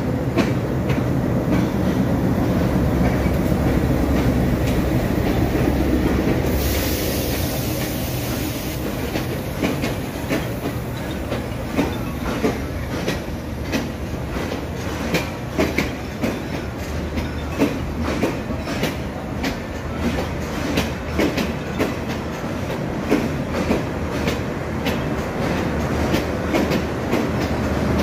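Departing passenger train: an ALCo-design DL560C diesel-electric locomotive runs past with a steady low rumble, with a couple of seconds of hiss about seven seconds in. Then the coaches' wheels click repeatedly over the rail joints, the clicks coming thicker as the train gathers speed.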